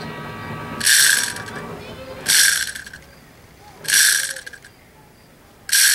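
Plastic toy chainsaw's mechanism making four short, high-pitched ratcheting rasps, each under a second and spaced a second or two apart, as it is worked and fails to start.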